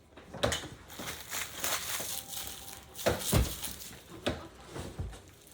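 Packaging rustling and crinkling as printer parts are handled, with several knocks and clatters of the parts being picked up and set down.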